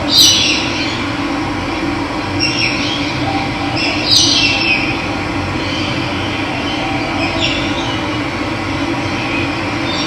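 Running water: a steady rush with louder splashing surges every few seconds, the strongest near the start and about four seconds in.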